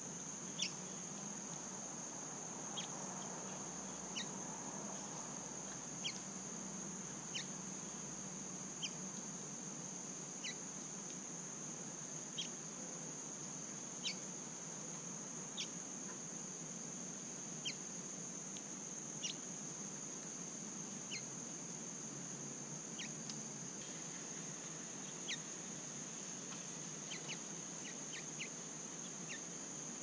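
A steady high-pitched insect drone, like crickets or cicadas, runs throughout. Over it a bird gives a short, sharp chip call, falling in pitch and repeated about every one and a half to two seconds, with a few quicker calls near the end.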